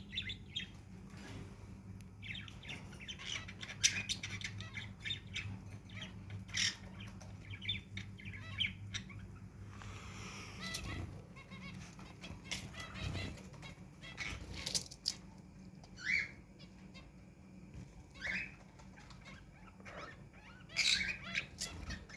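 Mixed cage birds, small parrots, cockatiels and finches, chirping and calling in short notes, with wing flaps and scattered clicks. A steady low hum runs under the first half.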